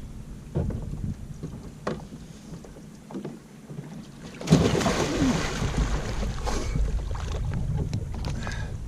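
A person jumping into the water beside a fishing kayak: small knocks and splashes, then a loud sudden splash about halfway through. Churning water and wind on the microphone follow.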